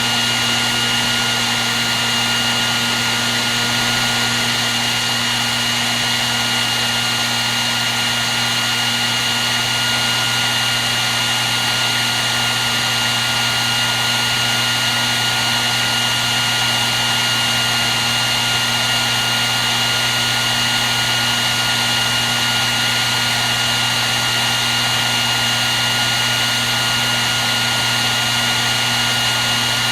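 Hair dryer running steadily without change: an even rush of blown air with a low motor hum and a constant high whine.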